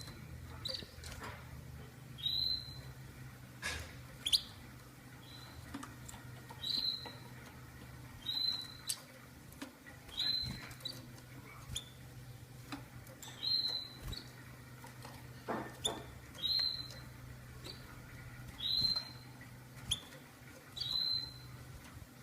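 Canary peeping: short, high, squeaky peeps repeated about once a second, over a faint low steady hum and a few soft clicks.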